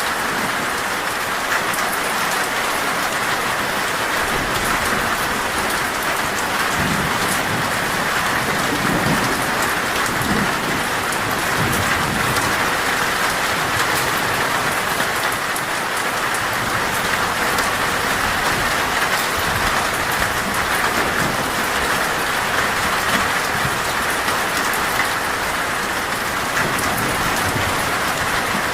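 Torrential rain on a metal roof, a dense steady hiss flecked with sharp drop hits. A low rumble of thunder swells from about four seconds in and fades by about thirteen seconds.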